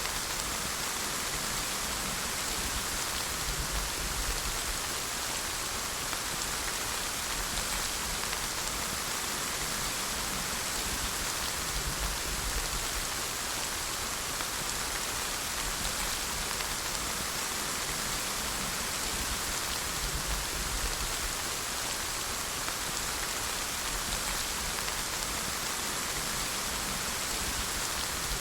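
Steady rain falling, an even hiss of many drops with a faint low rumble underneath.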